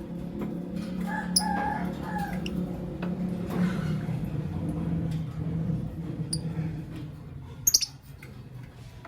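Lovebirds chirping: a few short calls in the first couple of seconds, scattered brief high chirps, and the loudest burst of sharp chirps near the end, over a low steady hum.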